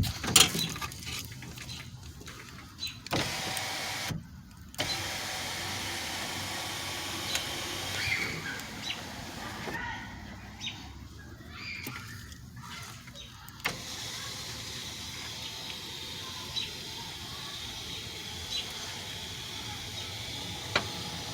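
2008 Cadillac CTS power sunroof motor running, sliding the glass panel closed, with a steady electric drive noise broken by a couple of short pauses and a few light clicks.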